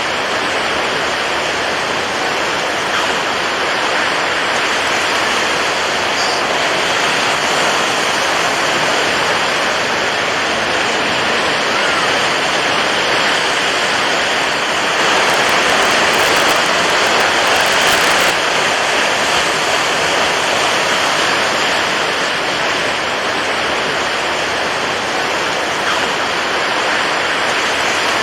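Steady rushing water, an even wash of noise, swelling a little louder for a few seconds past the middle.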